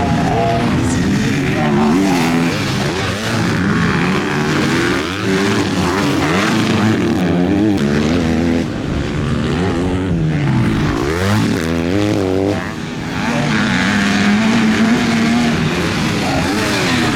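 Several MX2-class motocross bikes racing, their engines revving up and falling back through gear changes and over the track as they pass. Several engine notes overlap throughout, with a deep drop and climb in pitch a little past halfway.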